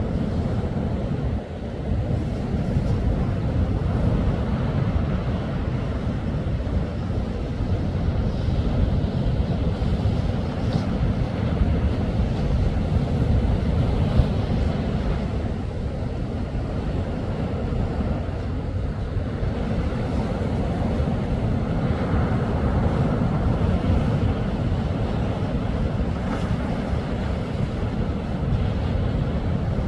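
Sea waves washing onto the shore, heavily covered by a steady low rumble of wind buffeting the microphone.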